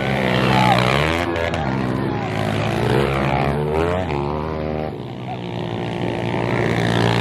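Several pit bike engines running hard, their pitch rising and falling again and again as the bikes rev up and back off, the notes of different engines overlapping.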